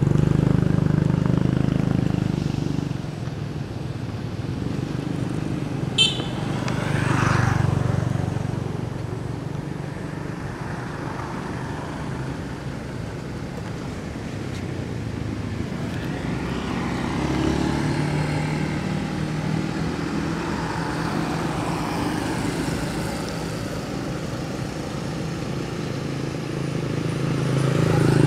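Road traffic: motor vehicles running and passing by, their engine noise swelling and fading. There is a single sharp click about six seconds in.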